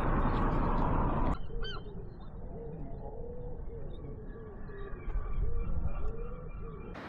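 A loud rush of noise, then after about a second a quieter run of short repeated bird calls, several a second, over a low rumble.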